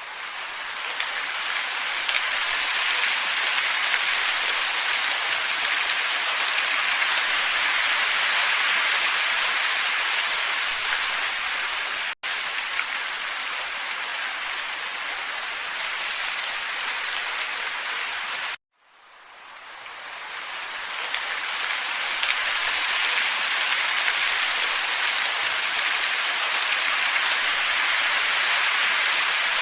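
Steady, even hiss of a looped wind ambience track. It drops out for an instant about 12 seconds in, cuts off abruptly about 19 seconds in, and fades back in over the next few seconds.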